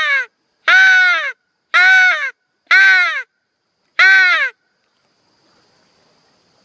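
Crow call blown by a hunter: a run of five loud, harsh caws about a second apart, each falling in pitch, the first already under way.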